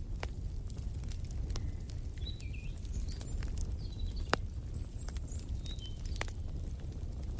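Wood fire crackling in a fireplace: scattered sharp pops, a few of them louder, over a steady low rumble. Short bird chirps come in a few times from about two seconds in to about six and a half seconds in.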